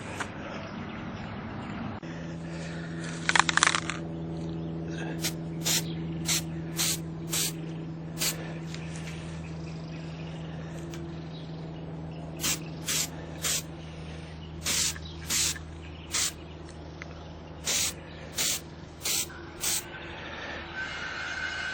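Aerosol spray paint can sprayed in short bursts of hiss, about sixteen in quick groups. A louder clatter comes about three seconds in, and a steady low hum sits underneath.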